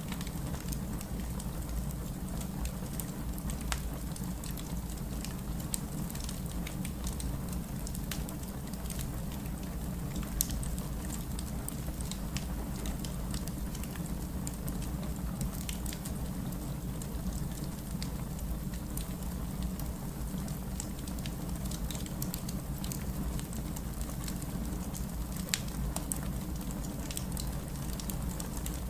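Wood fire burning in a fireplace: a steady low rumble with scattered sharp crackles and pops, a few louder pops standing out.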